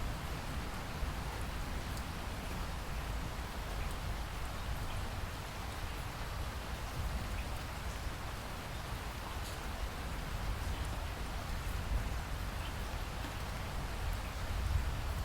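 Steady rain falling, with a continuous low rumble underneath and scattered faint ticks of individual drops.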